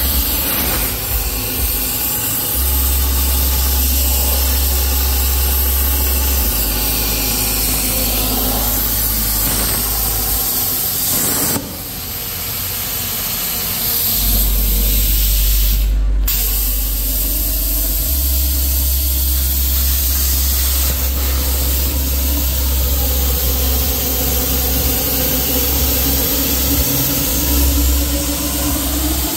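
CNC plasma cutter torch cutting sheet metal, a loud steady hiss of the arc and air, with a low hum underneath. The sound breaks off briefly twice, about a third and halfway through.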